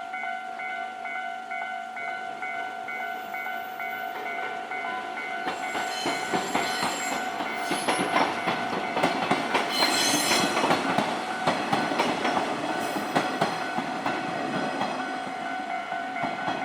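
Japanese level-crossing alarm ringing its repeating bell tone while a Nankai Koya Line train passes over the crossing. The wheels clatter over the rail joints, building up about a third of the way in, loudest around the middle and fading near the end.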